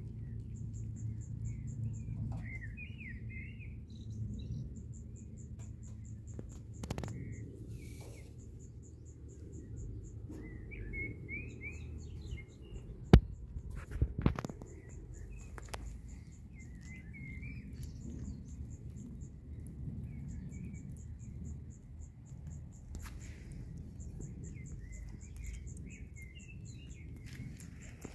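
Small birds chirping in short twittering phrases at several points, over a steady, rapidly pulsing high insect trill. About halfway through comes one sharp knock, the loudest sound, followed a second later by a couple of softer ones.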